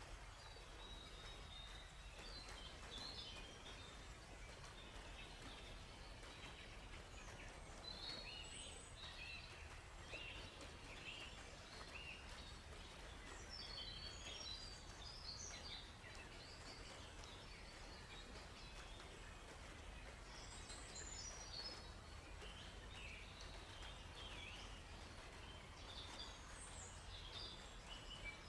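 Faint forest ambience: songbirds chirping and trilling in short, scattered calls over a steady low background hiss.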